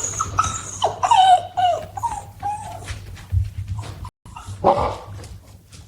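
Dogs whining, with a run of high, gliding whimpers about a second in and another short whine near the end.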